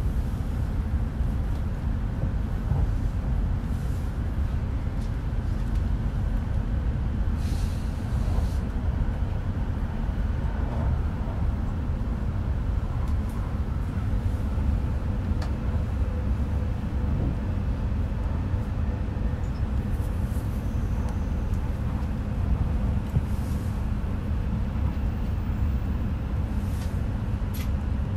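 Steady low rumble of an E5 series Shinkansen running, heard from inside the passenger cabin, with a brief hiss about eight seconds in.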